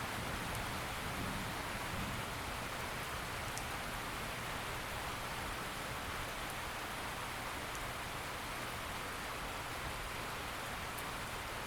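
Steady, heavy rainfall: a dense, even hiss of rain falling on surfaces, with a few faint isolated drop ticks.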